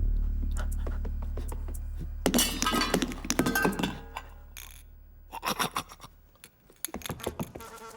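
A clattering crash of things knocking and clinking together about two seconds in, followed a few seconds later by a run of light clicks and clinks, over a low held note that slowly fades.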